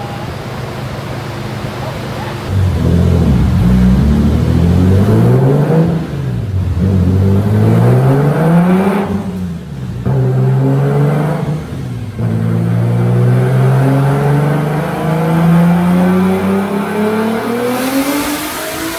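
Turbocharged BMW E46 M3's S54 inline-six running on a chassis dyno, revving up and down several times. The pitch climbs and falls, cuts out sharply about nine and a half and twelve seconds in, then climbs slowly again before easing off near the end.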